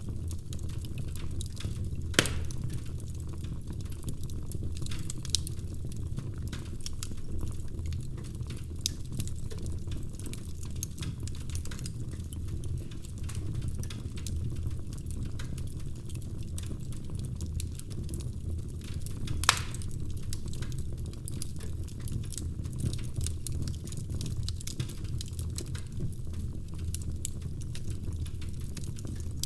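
Wood fire crackling in a fireplace: a steady low rumble of the flames with scattered small crackles and two sharp pops, one about two seconds in and one about two-thirds of the way through.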